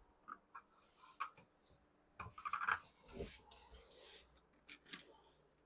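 Light clicks, taps and scrapes of small objects being handled, with a louder brief rattling clatter a little over two seconds in.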